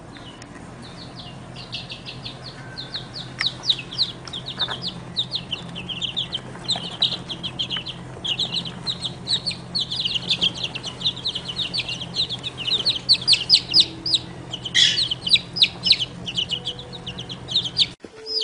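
Baby birds cheeping insistently: a dense, continuous stream of short, high peeps, several a second, growing louder toward the end. A faint steady low hum runs underneath.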